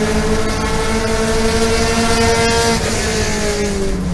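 Toyota GT86's 2.0-litre flat-four boxer engine, heard from inside the race car's cockpit, pulling steadily at high revs in fifth gear at full throttle. Near the end the engine note falls as the throttle is lifted ahead of braking.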